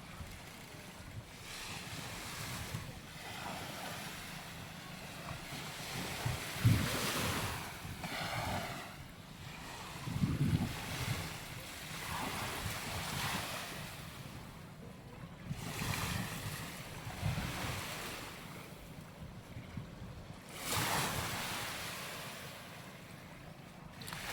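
Waves washing onto a sandy beach, swelling and fading every few seconds, with wind buffeting the microphone in gusts.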